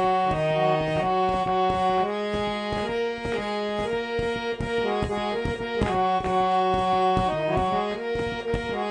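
Instrumental passage of Garhwali folk music: a reed keyboard instrument holds sustained melody notes that step from one pitch to the next, over steady hand-drum strokes.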